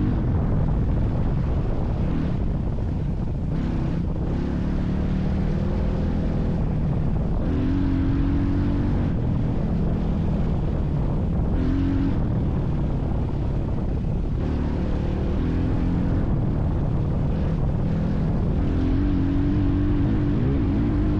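A vehicle engine running steadily, its pitch shifting up and down every few seconds as the revs change, with wind on the microphone.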